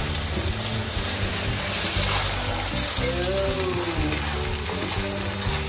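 Tuna and chili sauce sizzling in a stainless steel wok as it is stirred with a spatula, over background music with a changing bass line.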